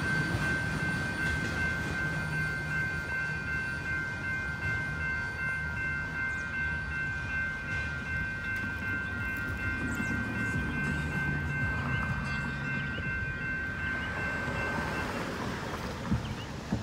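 Freight train of autorack cars rolling away on the track: a low rumble of wheels on rails that slowly fades, with a steady high-pitched squeal over it that stops about fifteen seconds in. A short knock comes near the end.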